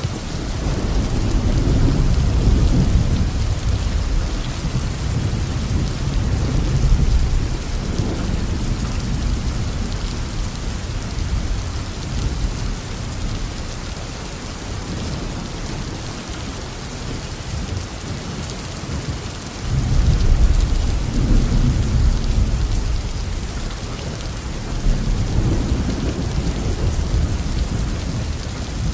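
Heavy rain falling steadily on a roof, with deep rolling thunder swelling in low rumbles: a long one in the first several seconds, another about two-thirds of the way through, and a softer one near the end.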